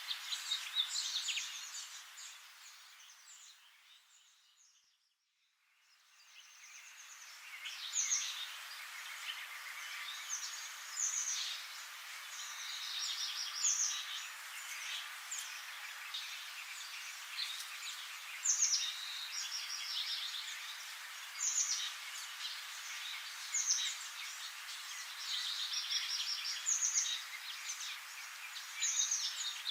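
Birds chirping and singing in short repeated phrases over a steady hiss; the sound fades out about four seconds in and fades back in a couple of seconds later.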